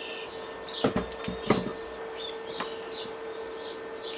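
Small birds chirping repeatedly over a steady mid-pitched tone, with a few sharp clicks about a second and a half in.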